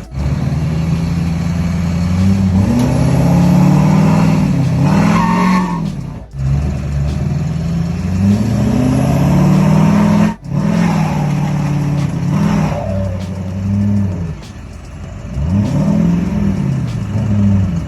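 Tractor engine revving up and falling back again and again, with two abrupt breaks in the sound.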